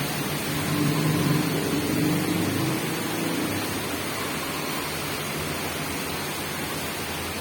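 Steady hiss of rain, with a vehicle's engine fading away over the first few seconds.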